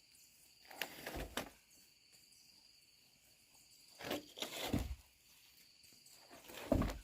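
Steady high insect chirring, broken by three short bursts of noise: about a second in, around four to five seconds in, and again near the end.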